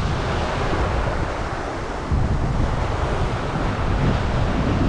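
Wind buffeting the microphone over the rush of waves breaking on the shore; the noise jumps louder about two seconds in.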